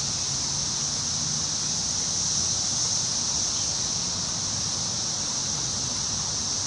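Wind blowing steadily through forest trees, a constant rushing hiss of leaves with a low rumble underneath.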